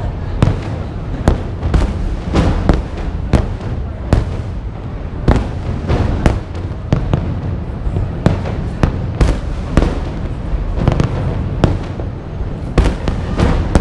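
Fireworks display: a rapid, irregular run of aerial shell bursts, many bangs a second at times, over a continuous low rumble.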